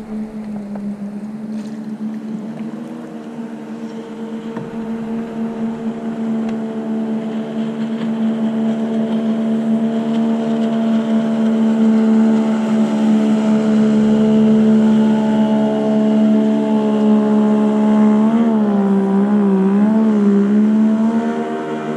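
Motorboat engine running steadily, growing louder over the first half, then its pitch wavers up and down near the end.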